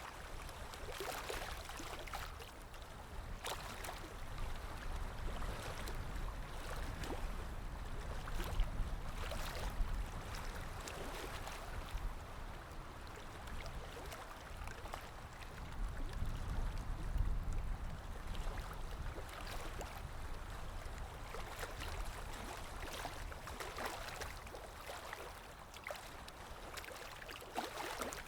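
Underwater ambience: a muffled low rumble of water that swells and ebbs, with scattered faint clicks.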